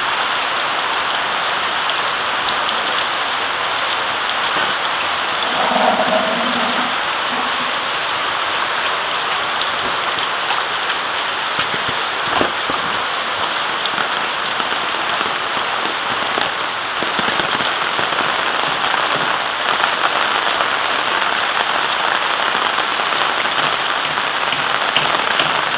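Steady heavy rain falling, an even hiss with no break. About six seconds in a short, low tonal sound rises briefly above it, and a single sharp tick comes near the middle.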